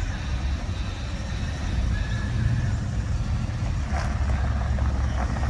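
Motor vehicle engine running with a low, steady rumble.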